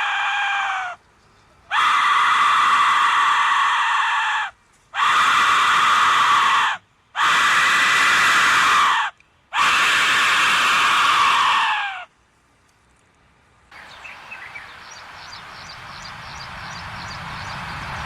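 Aztec death whistle blown in long, shrill, scream-like blasts: one ending about a second in, then four more of two to three seconds each, the pitch sagging as each blast dies away. From about 14 s in, a different steady noise swells slowly, with a few faint clicks.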